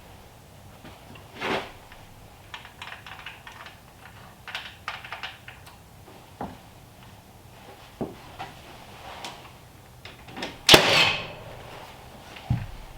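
Irregular light knocks and clicks. One louder knock comes about eleven seconds in, followed by a short scraping noise.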